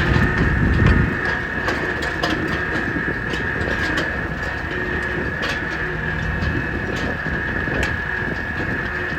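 A machine or engine running steadily, with a constant high whine and scattered clicks and rattles; its low hum drops away about a second in and comes back about halfway through.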